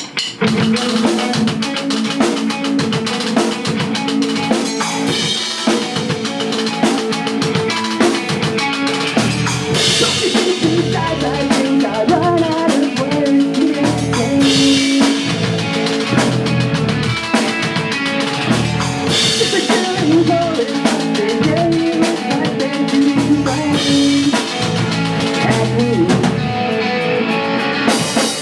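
Pop-punk band playing live: a full drum kit with kick and snare driving a fast beat under guitars and bass, with bright cymbal-crash stretches returning every few seconds.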